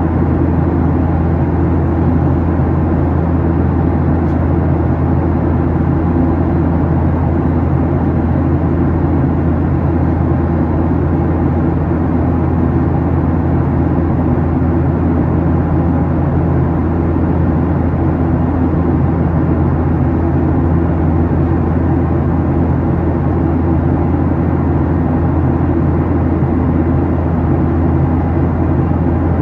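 Steady cabin drone of a Boeing 737-800 in the climb: its CFM56-7B turbofan engines and the rush of air along the fuselage, heard from inside the passenger cabin.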